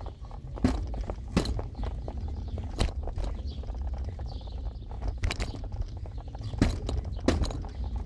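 Car driving along a street: a steady low road and engine rumble with sharp knocks or rattles six times, as from bumps in the road surface.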